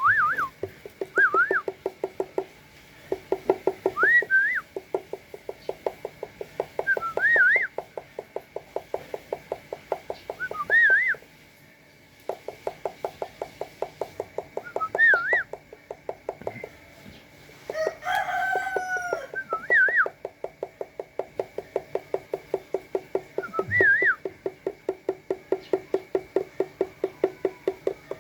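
Bird sounds: long runs of a rapid pulsing chatter, short rising-and-falling whistles every few seconds, and a rooster crowing once about two-thirds of the way through.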